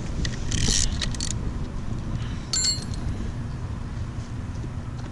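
Metal parts and tools being handled during an engine teardown: a scraping rustle in the first second or so, then a short ringing metal clink about two and a half seconds in, over a steady low hum.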